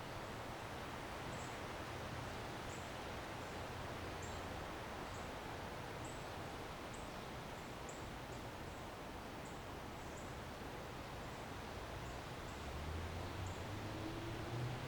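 Steady outdoor ambience of a residential yard: an even hiss of wind and distant city noise, with short high chirps every second or so. Near the end a low hum rising in pitch grows louder.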